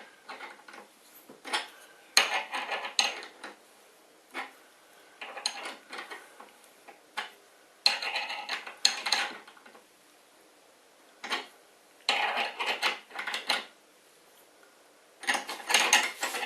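Metal clinking and scraping in irregular bursts with short quiet gaps, as the threaded levelling feet of a CNC machine are screwed up and down.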